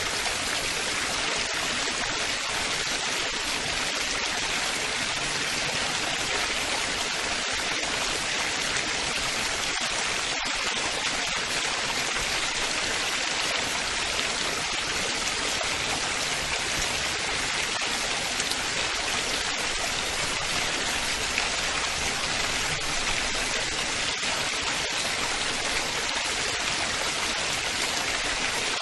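Running water splashing and babbling steadily, with no pauses.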